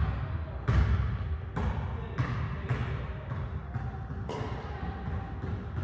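Badminton rackets striking a shuttlecock in a doubles rally: about six sharp hits, one every half second to a second.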